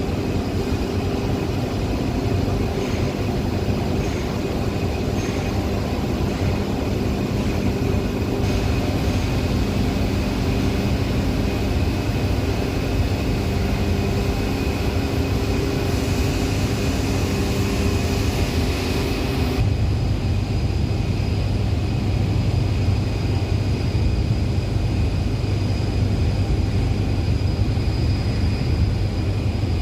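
Heavy industrial machinery running steadily: a loud hum with several steady tones and a faint high whine over a rushing noise. About two-thirds of the way through the sound changes abruptly to a deeper, stronger hum as the higher hiss drops away.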